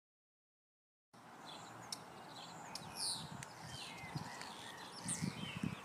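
Digital silence for about a second, then several birds chirping and singing over a faint steady background hiss, with a few low rumbles near the end.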